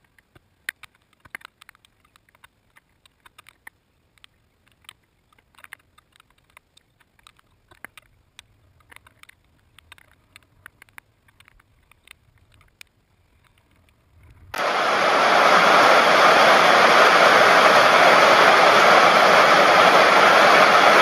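Faint scattered ticks, then about fourteen and a half seconds in a loud, steady rush of heavy downpour rain cuts in suddenly and holds.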